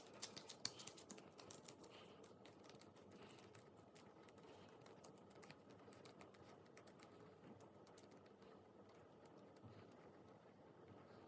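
Faint, rapid small clicks and pops of slime being pressed and worked by hand, thickest in the first couple of seconds and then thinning out.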